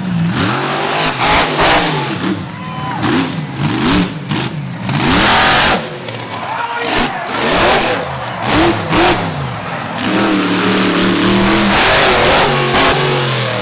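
Monster truck engine revving hard in repeated surges, its pitch climbing and dropping, broken by loud sudden bangs and blasts; the longest blast comes about five seconds in, and the engine holds a steadier note from about ten seconds in.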